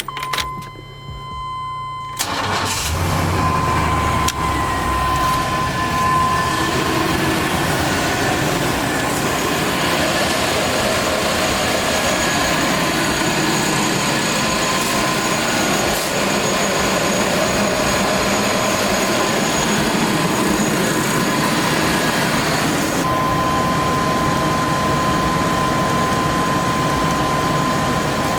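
Pickup truck engine started: it cranks and catches about two seconds in, then runs steadily. A steady high tone sounds at the start and again near the end.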